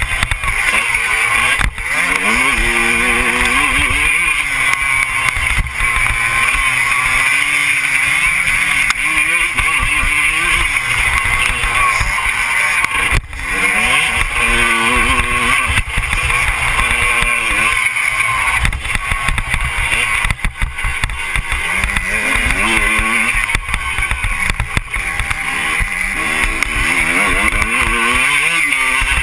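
Motocross bike engine revving, its pitch climbing and falling again and again every few seconds, over a steady rushing noise.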